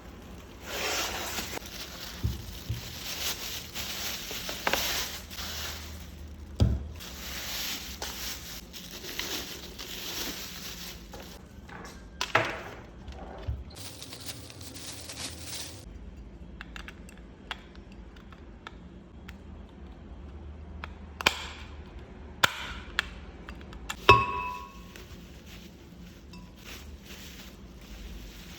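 Unboxing handling sounds: packaging rustling in long stretches during the first half, then scattered knocks and clinks of blender parts being set down, the loudest a ringing clink near the end.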